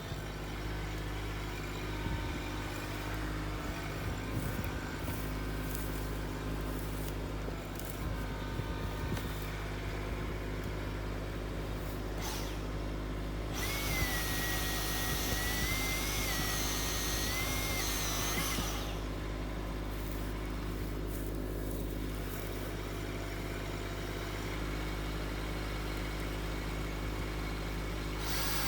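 A tractor engine running steadily. Midway, a hissing sound with a high, wavering whine joins it for about five seconds.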